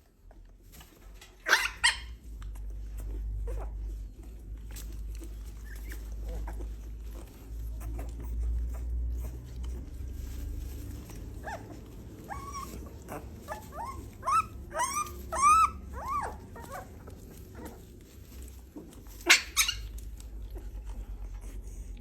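A dog barks sharply about a second and a half in, gives a run of short arched whining yelps around the middle, and barks again near the end, over a low rumble.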